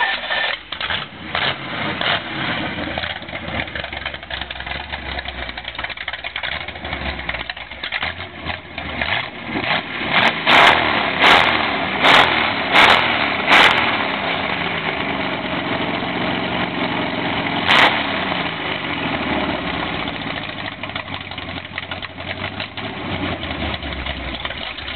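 Chevrolet 409 V8 engine running soon after start-up, its revs rising and falling. About five sharp, loud cracks come in quick succession near the middle, and one more follows a few seconds later.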